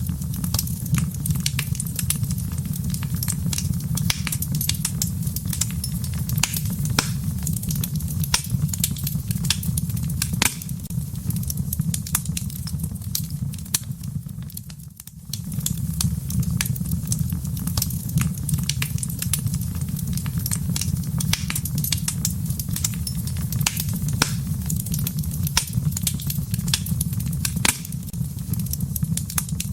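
Wood fire burning in a fireplace: a steady low rumble with frequent sharp crackles and pops. The whole sound dips briefly about halfway through, then comes back.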